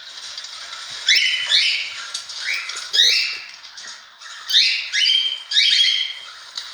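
Cockatiel giving a string of short, harsh calls, several coming in quick pairs, with short pauses between the groups.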